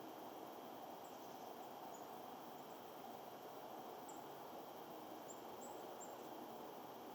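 Faint outdoor ambience: a steady low hiss with scattered short, very high-pitched bird chirps, several of them bunched a little past the middle.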